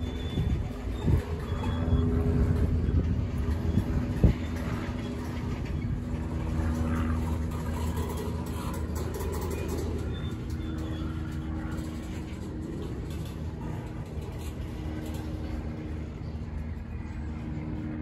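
Freight cars of a manifest train rolling past: a steady rumble of steel wheels on the rails, with a sharp clank about four seconds in. It gets gradually quieter as the train slows.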